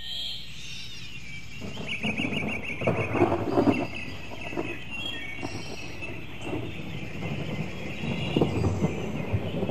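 Birds chirping, with a rapid trill about two seconds in, over a dense, crackling rumble of noise.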